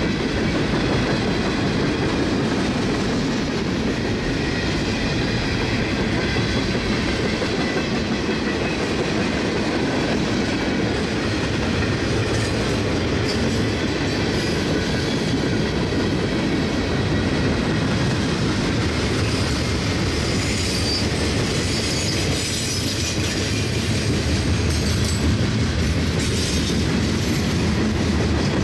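CSX freight train's cars (gondolas, boxcars and hoppers) rolling past close by: a steady rumble of steel wheels on the rails.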